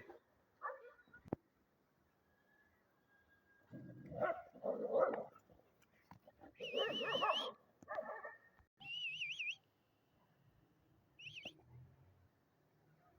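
A dog barking and whining in short separate bursts, two of them a high, wavering whine.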